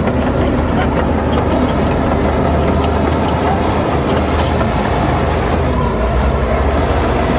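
Heavy diesel earthmoving machinery running steadily under load: a deep, continuous engine rumble with faint light clicks scattered through it.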